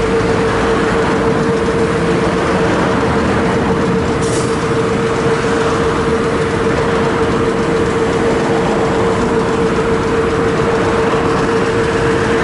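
Hiroshima Electric Railway streetcar with a steady electrical hum of one even pitch over a constant rumble. A brief hiss about four seconds in.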